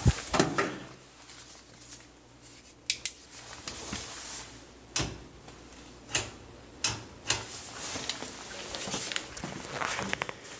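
Irregular sharp clicks and knocks of hands handling parts of a GE electric dryer while its drum light bulb is changed, about a dozen spread out, over a low steady hum.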